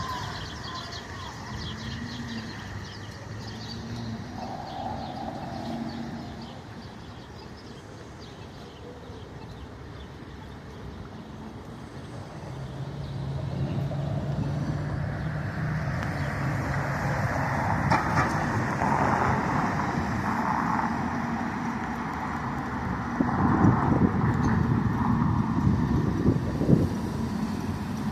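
Street traffic: motor vehicles running, with a low engine hum that grows louder about halfway through and a few knocks and bumps near the end.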